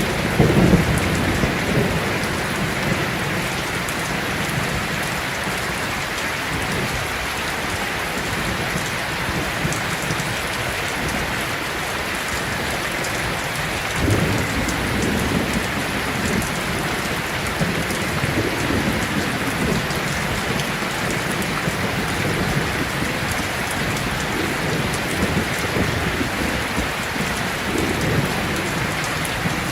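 Heavy rain falling steadily in a thunderstorm, with low rolls of thunder rumbling at the start, again about halfway through and a few more times later.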